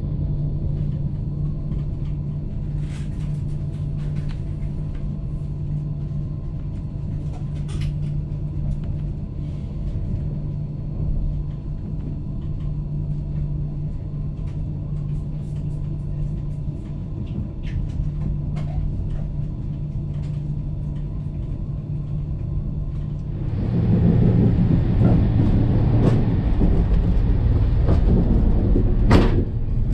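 Cabin sound of an Italo AGV high-speed train on the move: a steady low rumble and hum with a few faint clicks. About 23 seconds in it cuts to a louder, rougher rushing rumble heard inside the train's toilet compartment, with a couple of sharp clicks near the end.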